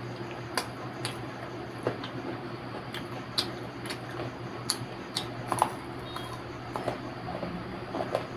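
Close-miked eating: irregular sharp crunches and mouth clicks from chewing fried pakoda, a dozen or so scattered through, over a steady low background hum.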